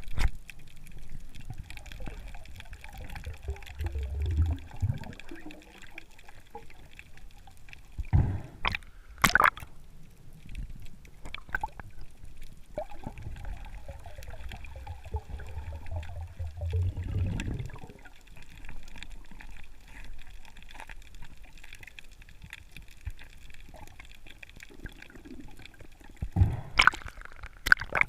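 Water gurgling and sloshing, with two long, low swells of water movement and a few sharp knocks.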